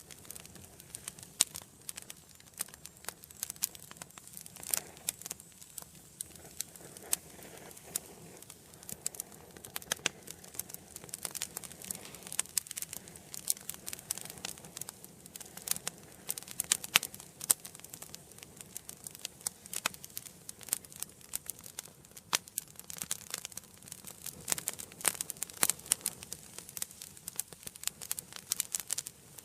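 Wood fire burning in a fireplace: dense, irregular crackling and popping of burning logs over a soft, steady hiss of flame.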